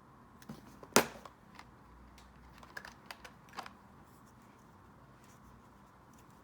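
Stationery being handled on a desk: one sharp click about a second in, then a few lighter taps and clicks over the next two and a half seconds.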